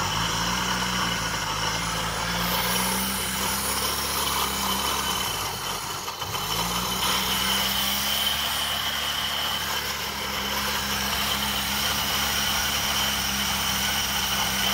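Oldsmobile Firenza engine running on fuel sprayed into its throttle body, because its fuel pump is bad. About five seconds in the revs sag almost to a stall, then pick back up after about six seconds and hold a steady idle.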